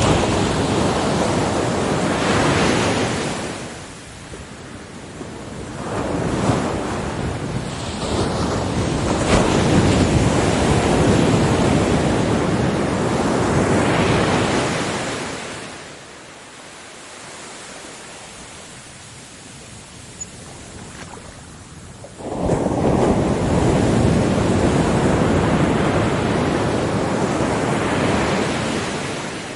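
Ocean waves breaking on a beach, the surf rising and falling in long surges with quieter lulls between; one wave comes in suddenly about two-thirds of the way through.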